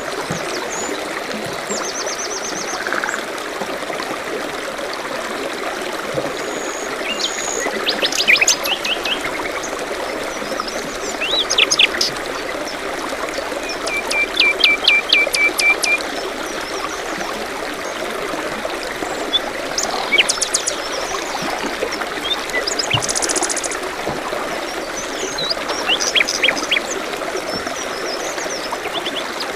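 Forest birds singing, with several short trills and rapid chirp series over a steady trickle of running stream water.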